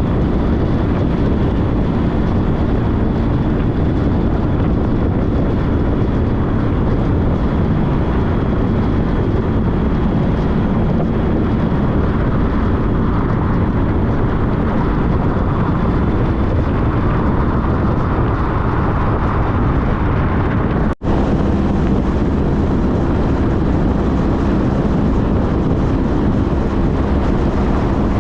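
Honda CTX1300 motorcycle's V4 engine running at a steady cruise, under loud wind and road noise while riding. The sound cuts out for an instant about two-thirds of the way through, then carries on at a slightly different pitch.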